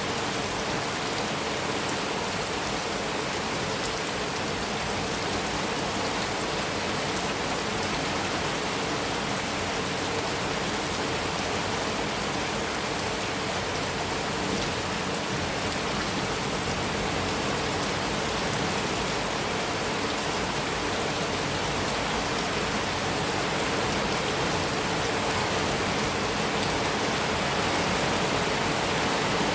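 Heavy rain falling steadily on a metal roof, a dense even hiss with no thunder.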